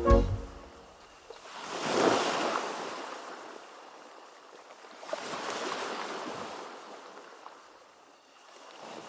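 Sea waves washing in on the shore in slow swells: one crests about two seconds in, a longer one spreads through the middle, and a third builds near the end.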